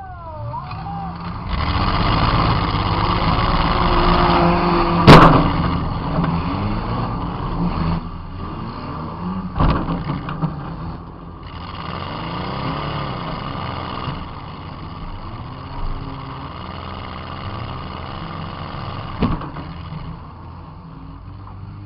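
Demolition derby car's engine revving hard and easing off, heard from inside the car, with a loud crash of a collision about five seconds in and further, smaller hits near ten, sixteen and nineteen seconds.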